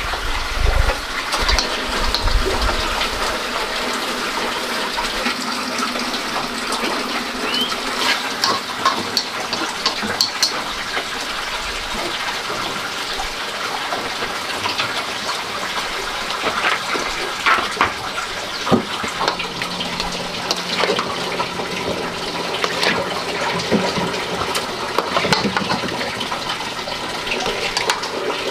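Bitter melon and meat stir-frying in a steel wok: a steady sizzle with frequent small crackles and clicks.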